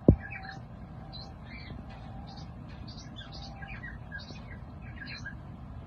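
Cockatiel chattering: a run of short high chirps, several a second, over a steady low hum.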